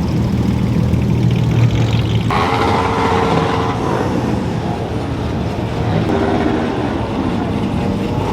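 Car engines running and cars driving by, with a steady low engine note and more engine tones over it; the sound changes abruptly about two seconds in.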